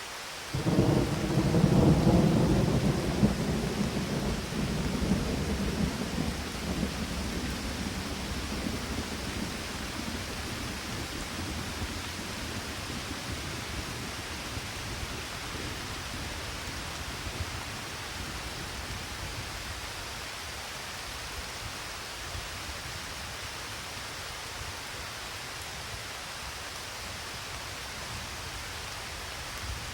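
A thunderclap breaks in suddenly just after the start and rumbles away over about ten seconds, over steady rain.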